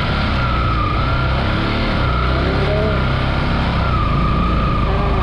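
Floodwater rushing through a dam's open sluice gates: a loud, steady, unbroken wash of noise, with a faint wavering high tone over it.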